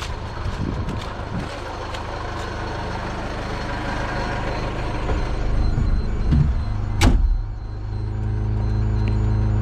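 A vehicle engine running with a low, steady drone that grows louder, with a sharp clunk about seven seconds in.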